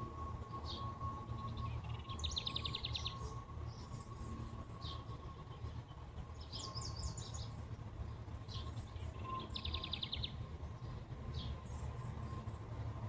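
Wild songbirds chirping and calling in short high notes, with two rapid trills, one about two seconds in and one about ten seconds in. A steady thin tone and a low outdoor rumble run underneath.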